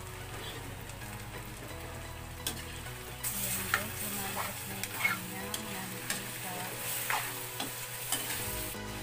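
Chicken pieces sizzling in an aluminium wok as their cooking liquid reduces. From a few seconds in, a metal spoon scrapes and clinks against the pan as the chicken is stirred, and the sizzle grows louder.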